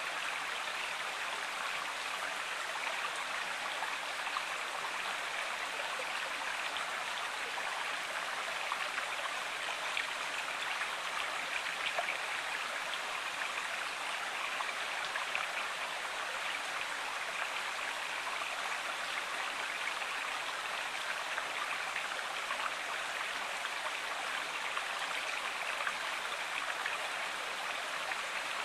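River water running steadily, an even rushing hiss with fine splashing ticks.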